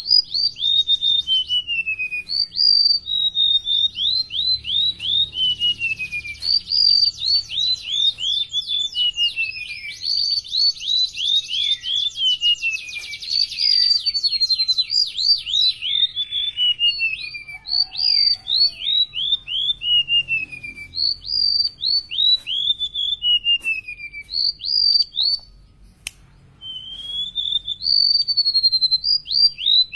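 Golden-bellied gerygone singing: a long run of clear, high whistled notes, each sliding downward, strung into phrases almost without pause. A stretch of rapid, closely packed notes comes in the middle, and there is one short break near the end.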